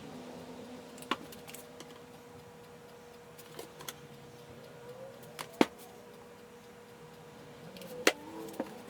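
Scattered sharp metallic clicks and taps of a screwdriver tip against the countersunk screw heads of a truck door-glass frame, about six in all, the loudest a little past halfway and another near the end, over a faint steady hum.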